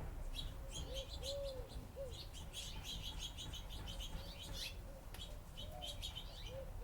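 A flock of small birds chirping busily over one another at feeding time, with a few short, low cooing calls mixed in.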